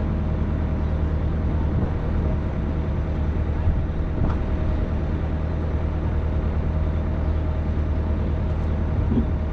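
Excavator's diesel engine running steadily at a constant speed, with no change in pitch.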